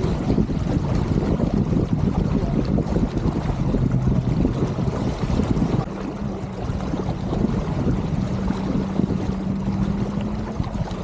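Wind buffeting the microphone over water rushing along a sailboat's hull, a steady low rumble, with a faint steady hum underneath that steps up in pitch about six seconds in.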